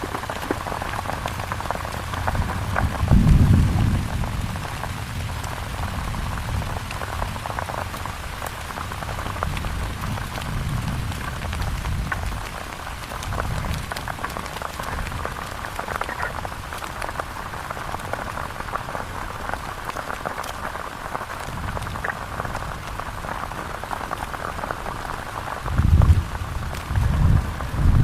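Heavy rain falling steadily, with deep low rumbles about three seconds in and twice near the end.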